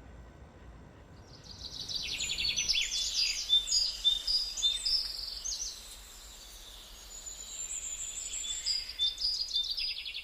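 Songbird singing: runs of rapid high chirps and trills starting about a second in, a short lull a little past the middle, then another run near the end.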